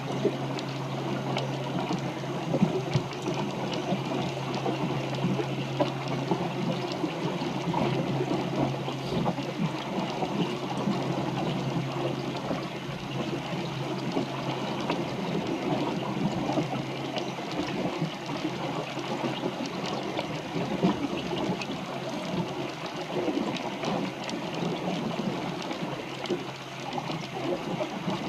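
Steady rushing and splashing of water, like water moving along a small boat's hull while under way, with a low steady hum through the first half that stops about halfway through.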